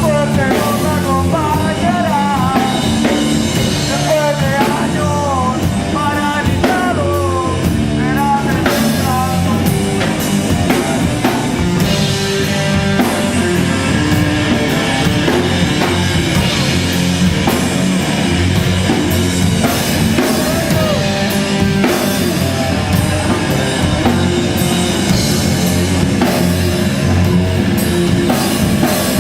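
Live heavy rock band playing loud and steady: drum kit, distorted guitars and bass, with singing over it.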